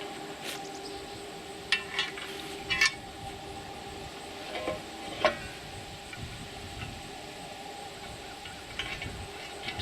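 Sharp metallic clinks and taps of steel parts and a bolt being handled and fitted together, several in the first half, over a steady hum.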